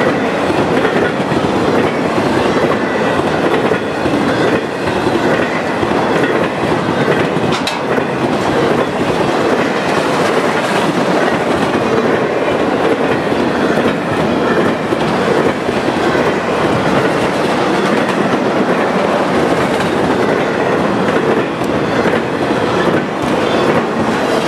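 Empty flatcars of a Norfolk Southern freight train rolling past, a loud steady rumble with the clickety-clack of the wheels over the rail joints.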